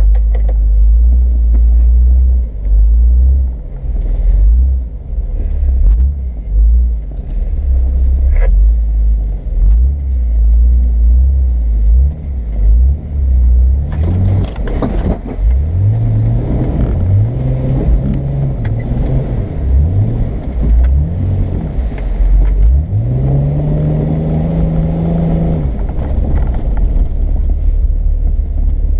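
Off-road vehicle engine working through a wet trail: a heavy low rumble at first, then from about halfway the engine revs up and drops back several times, climbing and holding higher near the end.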